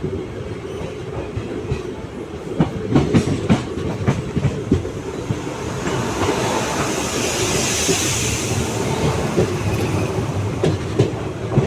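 Passenger train running on the track: a steady rumble with irregular clicks and knocks of the wheels over the rail joints. A rushing hiss swells and fades in the middle.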